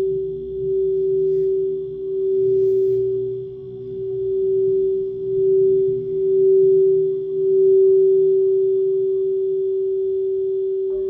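A singing bowl is held on one sustained tone that swells and fades in slow waves, then gently dies away. Near the end another bowl is struck and rings in at a higher pitch.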